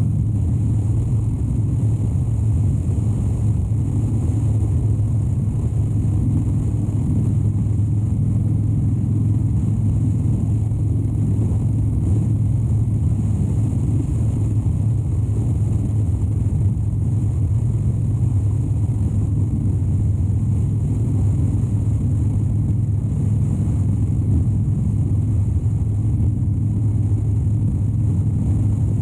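Harley-Davidson Dyna Wide Glide's 103-cubic-inch air-cooled V-twin running steadily at a constant cruising speed, with no throttle changes.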